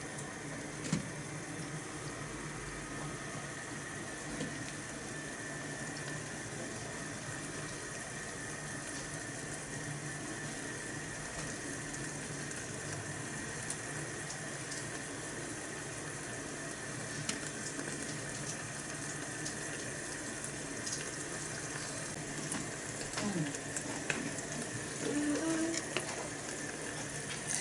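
Kimchi stew simmering in a small iron pot over a homemade alcohol stove, a steady bubbling hiss. A few light knocks come near the end.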